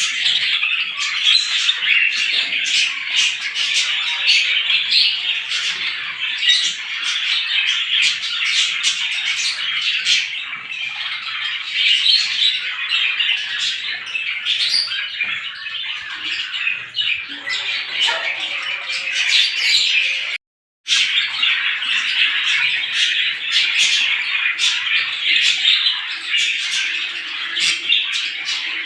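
A dense chorus of many small birds chirping and chattering at once, with no let-up. The sound cuts out completely for a moment about twenty seconds in, then resumes.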